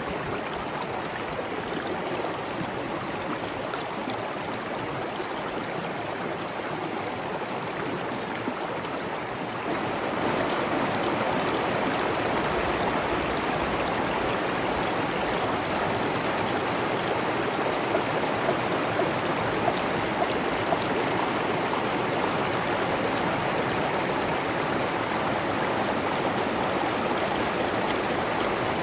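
Running water of a flowing stream, a steady rush that becomes louder and fuller about ten seconds in.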